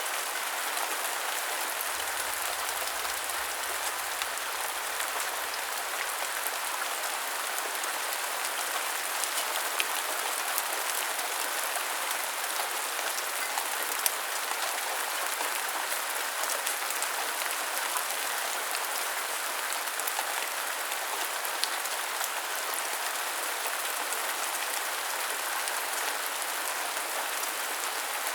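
Steady rain falling and pattering on surfaces, with a few sharper drop ticks standing out now and then.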